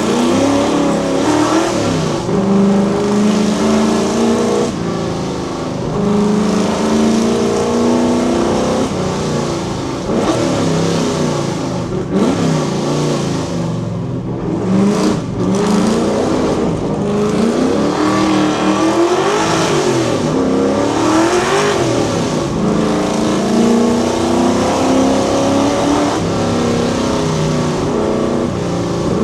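Fox Body Ford Mustang's 5.0 V8 driven hard, its exhaust note climbing in pitch under throttle and dropping again over and over as it shifts and lifts between runs of acceleration.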